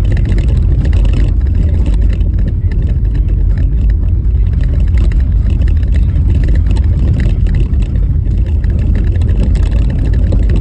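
Car driving over a rough, bumpy snow-covered road: a steady, loud low rumble of tyres and road noise.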